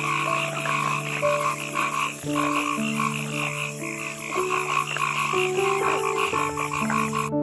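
Frogs croaking in a chorus, a rapid, even pulsing that runs throughout.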